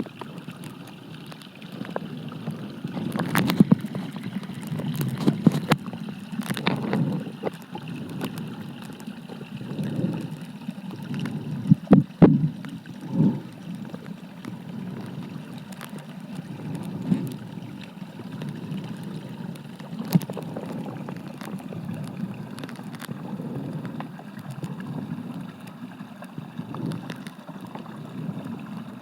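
Muffled underwater sound of a mountain stream: a low, steady rushing and gurgling, with scattered clicks and knocks and a few louder knocks about twelve seconds in.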